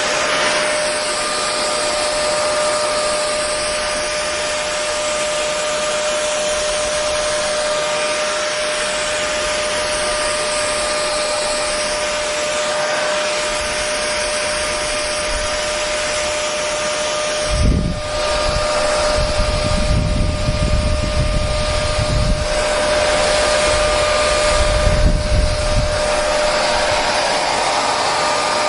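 Electric hair dryer running continuously: a steady rushing of air with a constant motor whine. In the second half it is joined by irregular low rumbling surges.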